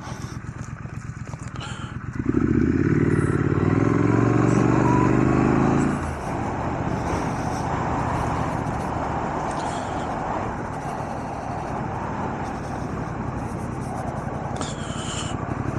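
Triumph Scrambler 900's parallel-twin engine riding along in a low gear. About two seconds in it swells louder with the throttle opened, rising a little in pitch, then eases back about six seconds in, leaving a steady rush of wind and road noise over a quieter engine note.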